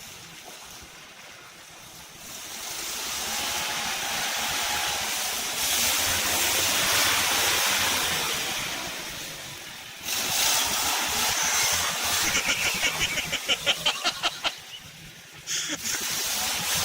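Off-road vehicle churning through mud and water: a rushing, splashing noise that swells and falls, then a quick run of slapping pulses near the end, about six or seven a second.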